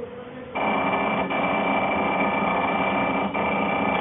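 Automatic balancing machine for subway brake discs at work. A loud, steady machining noise with a constant high whine starts abruptly about half a second in and breaks twice for a moment.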